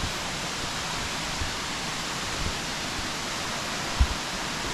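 Waterfall's falling water rushing steadily. A few brief low thumps sound over it, the loudest about four seconds in.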